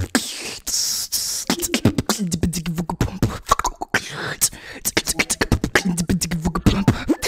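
Beatboxing: a fast run of mouth-made drum sounds, sharp clicks and kick-like hits with a hissing stretch near the start, and a held low hummed bass note twice, about two and six seconds in.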